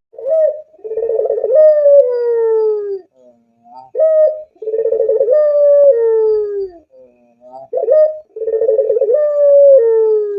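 Barbary dove (puter) cooing: three long calls, each a short rising note followed by a rolling, quavering coo that slides down in pitch.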